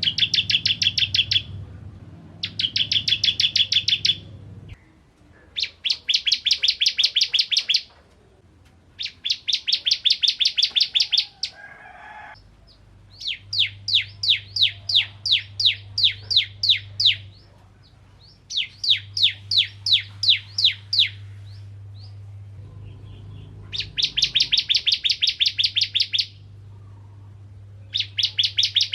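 Bar-winged prinia (ciblek) singing: repeated runs of rapid, sharp, high chattering notes, each run lasting one to four seconds with short pauses between. The runs in the middle are slower and more spaced than those at the start and end.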